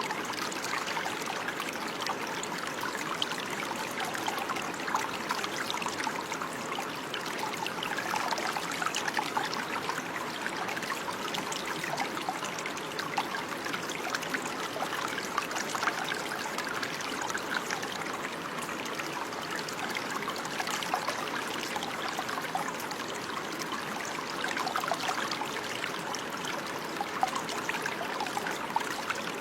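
Running water: a small stream trickling and babbling steadily, with many small splashes and gurgles.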